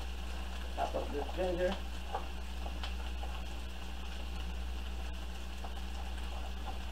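Onions and green bell peppers sizzling gently in a frying pan over low heat, a steady hiss, with a few light knife taps on a wooden cutting board as ginger is chopped.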